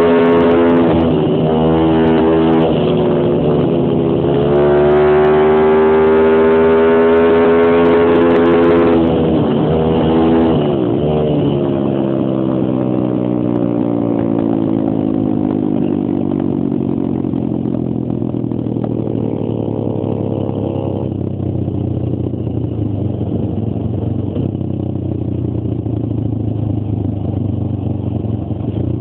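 Stomp Superstomp 140 pit bike's single-cylinder four-stroke engine revving hard, its pitch climbing and dropping back several times as it is ridden through the gears. About ten seconds in the revs fall away; the engine winds up once more about two-thirds of the way through, then drops to lower, steadier running.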